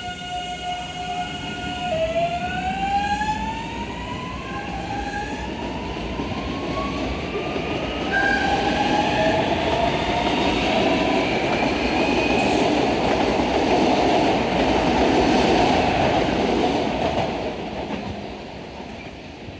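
Electric commuter train accelerating. Its traction motor whine holds one tone, then about two seconds in starts rising in a series of stepped glides. The loud rolling noise of the cars passing follows and fades near the end.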